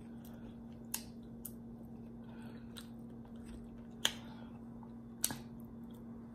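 Faint chewing of a mouthful of stew with the lips closed, with three sharp clicks spread through it, over a steady low hum.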